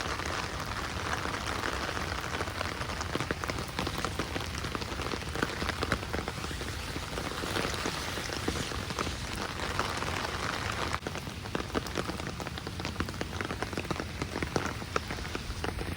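Heavy rain falling steadily, a dense hiss of rain with many sharp individual drop ticks close by. It eases slightly about eleven seconds in.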